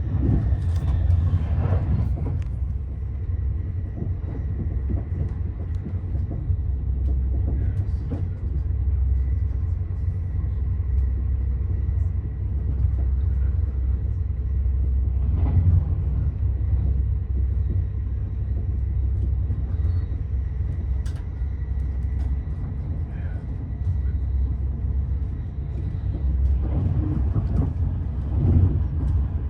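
Passenger train running along the track, heard from inside the carriage: a steady low rumble with a faint thin steady whine above it. A few louder knocks come at the start, about halfway through and again near the end.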